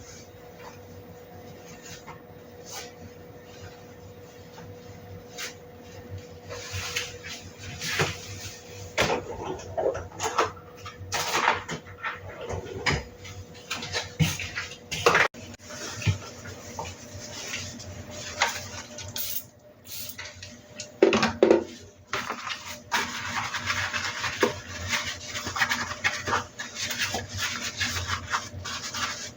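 Kitchen handling sounds: dishes, utensils and cupboard doors clinking and knocking at irregular intervals, with a faint steady hum in the first several seconds and a stretch of scraping and rubbing noise near the end.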